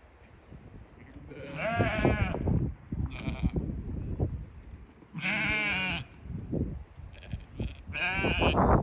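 Barbados Blackbelly sheep bleating, about five wavering calls, the loudest two about two seconds and five seconds in, with another near the end.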